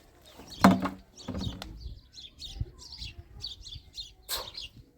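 Small birds chirping over and over in short high calls. There is a loud sudden thump a little under a second in, and a sharper one near the end.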